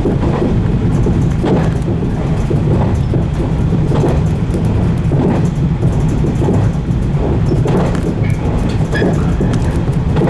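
115-series electric multiple unit running along the line: a steady rumble of wheels and motors, with regular rail-joint clacks a little more than once a second.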